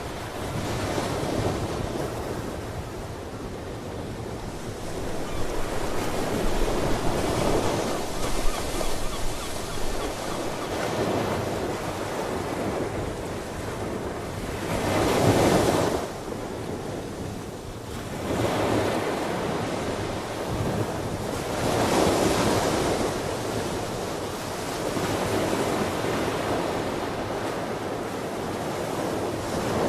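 Ocean surf: waves breaking and washing in, swelling and falling every few seconds, with the biggest surge about halfway through.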